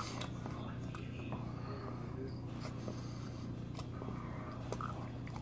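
Faint chewing of a mouthful of hot dog, with a few soft mouth clicks over a steady low hum.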